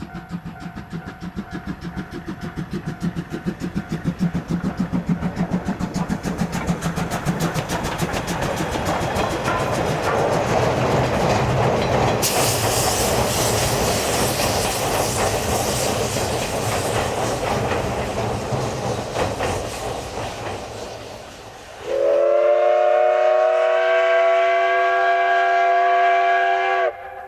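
Steam locomotive running by with a rhythmic pulsing that builds into a loud, steady rush of train noise. About 22 s in it sounds a long whistle of several tones at once, which slides up slightly as it opens and then cuts off abruptly.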